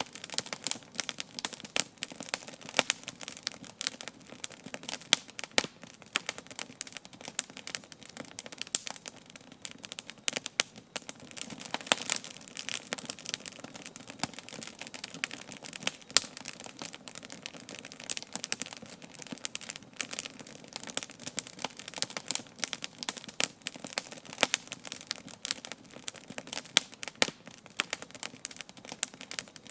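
Wood campfire burning, with dense, irregular crackling and popping over a soft steady hiss.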